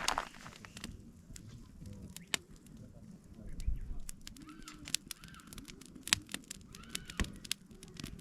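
Wood campfire crackling, with sharp irregular pops every second or so.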